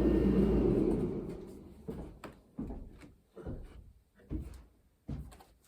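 A steady drone, most likely the basement heater, fades out over about a second. It is followed by a string of irregular knocks and clunks in a small room, about one every half second to a second.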